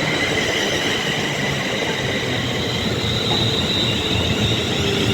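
Two coupled Class 350 Desiro electric multiple units running through the station: a steady rumble of wheels on rail, with several high whining tones held throughout.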